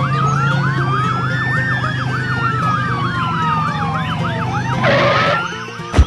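Emergency vehicle sirens: a fast yelp, rising and falling several times a second, over a slower rising and falling wail, with a steady low hum beneath. A short hiss comes about five seconds in, and a sharp knock right at the end.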